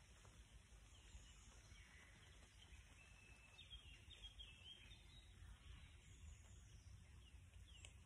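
Quiet woodland ambience: faint birdsong, with a quick run of short chirps around the middle, over a steady low rumble.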